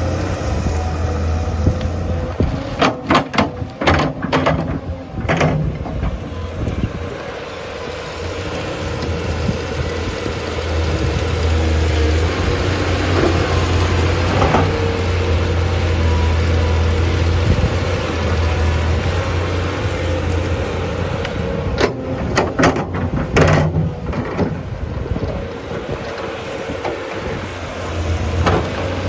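Heavy diesel machine engine running steadily, with a few sharp knocks and clanks in two bunches, one a few seconds in and another near the end.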